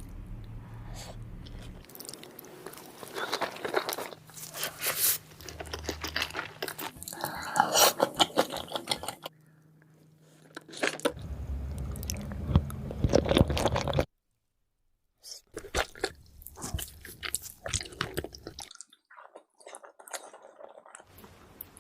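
Close-miked chewing of salmon sushi and sushi rolls, with wet, crackly chewing and crunching sounds coming in irregular clusters, and a brief total dropout at a cut about two-thirds through.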